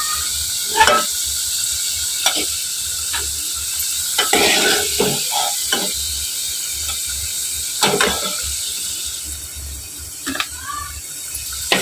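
Potato cubes sizzling as they fry in hot oil, with a steel ladle clinking and scraping against the aluminium pan as the browned pieces are scooped out. The sizzle is steady under a dozen or so sharp clinks and eases somewhat near the end.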